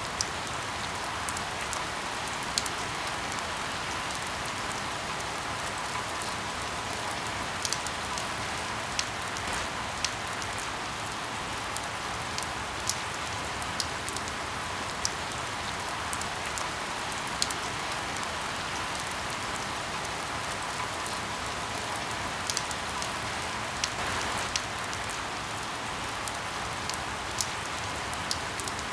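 Steady rain hiss with irregular sharp pops and crackles of burning firewood scattered through it.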